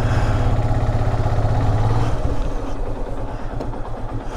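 Motorcycle engine running at low revs, with a strong pulsing note that drops back and weakens about two seconds in.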